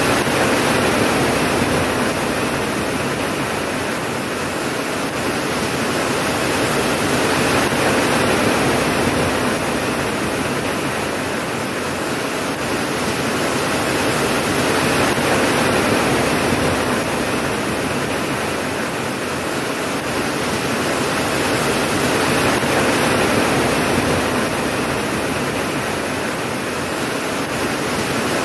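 Steady, heavy rainfall, a dense hiss that swells and eases gently every few seconds.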